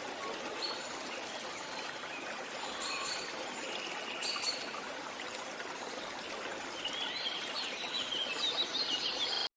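Running stream water with birds chirping over it; the birdsong grows busier in the last two seconds before the sound cuts off.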